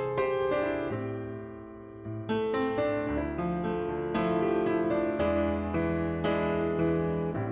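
Background piano music, notes and chords played at a gentle, even pace.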